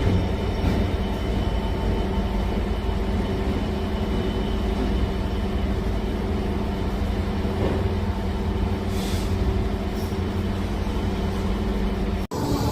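A train running with a steady low rumble and engine drone. The sound cuts off suddenly near the end.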